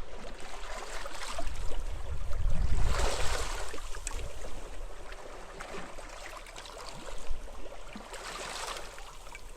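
Sea waves washing onto a beach in surges, the strongest about three seconds in and another near the end, with wind rumbling on the microphone in the first few seconds.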